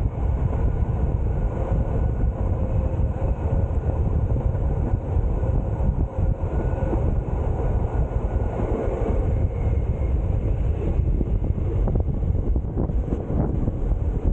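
Rhaetian Railway metre-gauge train running steadily, heard from outside the carriage window: a continuous low rumble of wheels on the track, mixed with wind buffeting the microphone.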